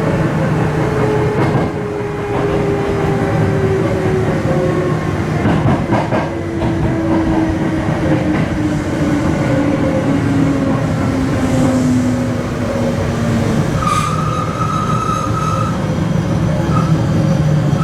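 Sanyo Electric Railway electric train running, its traction motors whining at a pitch that falls steadily over about thirteen seconds as the train slows. Near the end, a higher steady tone sounds for about two seconds.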